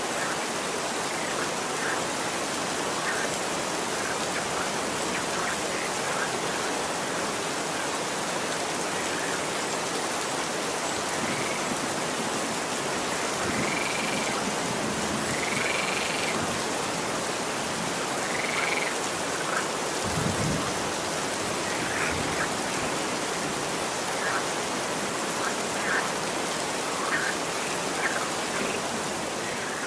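Steady rain falling, an even hiss, with short arching high-pitched calls from small animals now and then, about a dozen in all. A brief low rumble comes about two-thirds of the way through.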